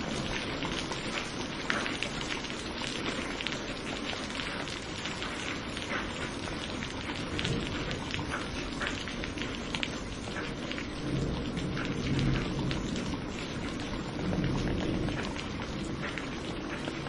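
Steady heavy rain, with many individual drops ticking sharply on a surface. Low rumbles of thunder swell up about eleven seconds in and again about fourteen seconds in.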